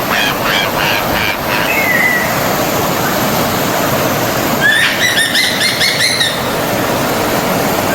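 Forest stream water running steadily, with a songbird singing over it: a fast run of repeated notes at the start, then a quick burst of rising notes about five seconds in.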